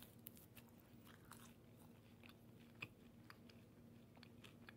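Faint chewing and crunching of a crinkle-cut french fry, a scatter of small crisp crunches with one sharper crunch about three seconds in.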